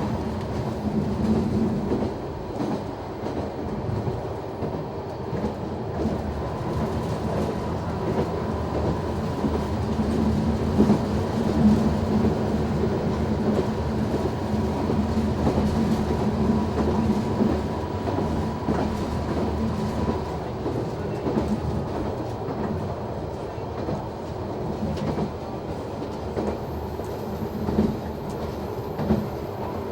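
Noto Railway NT100 diesel railcar running along the line, heard from the cab: a steady diesel engine drone with the clickety-clack of wheels over the rail joints.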